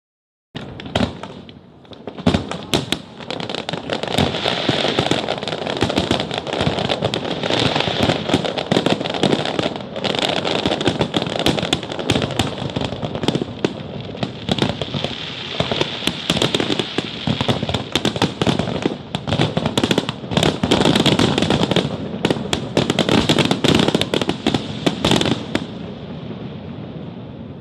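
Fireworks display: a dense, continuous barrage of bangs and crackling that thins out near the end.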